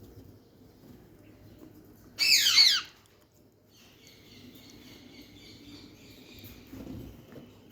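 A pet parrot gives one loud, harsh call about two seconds in, sliding down in pitch over under a second. A faint, steady high-pitched sound follows for a few seconds.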